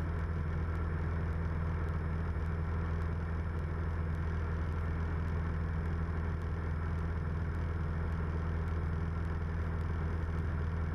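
Steady drone of a 1976 Cessna 172M's four-cylinder Lycoming engine and propeller in flight, running at an even power setting with no change in pitch.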